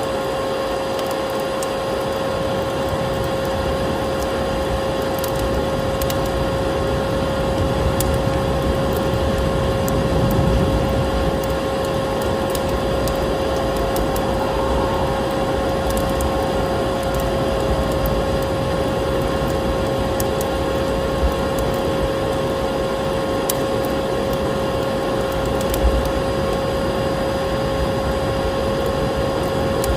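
Vacuum cleaner running steadily with a constant whine, over a wood fire crackling with scattered sharp pops.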